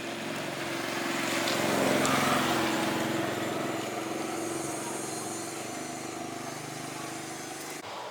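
A small engine running steadily, growing louder about two seconds in and then easing off, with an abrupt cut near the end.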